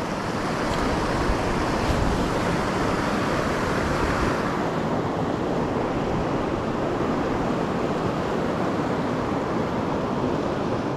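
Mountain creek water rushing steadily in a continuous hiss; the highest part of the hiss fades about four seconds in.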